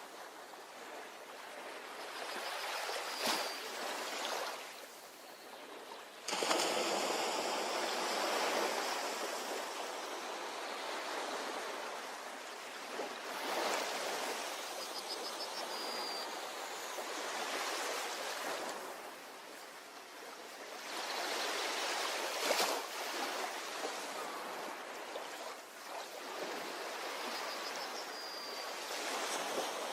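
Ocean waves breaking and washing up on a beach, coming in surges several seconds apart, the strongest breaking about six seconds in. Faint short high chirps sound now and then.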